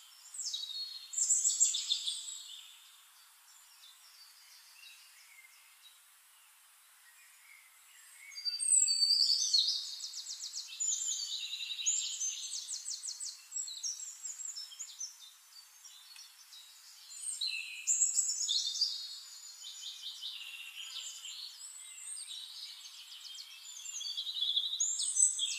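Songbirds chirping and singing quick trills in several bursts, with a quiet lull a few seconds in.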